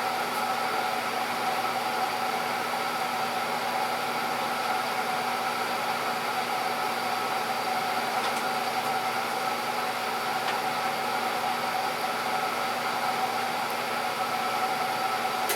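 Steady machine hum with a hiss and a few fixed tones, unchanging throughout, like a fan or small motor running.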